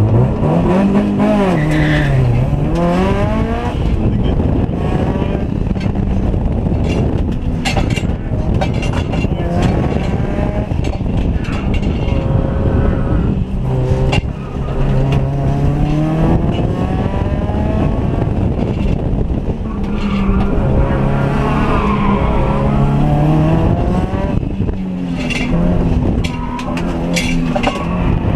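A 320-horsepower autocross car's engine being driven hard, its pitch climbing and dropping again and again as it accelerates, shifts and lifts through the course.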